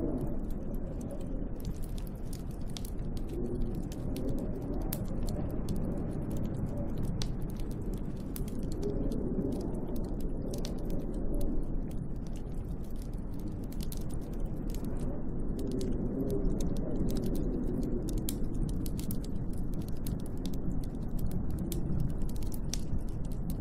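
Snowstorm wind blowing outside a window: a low rushing noise whose wavering pitch swells up every few seconds, over a scattering of faint crackling ticks.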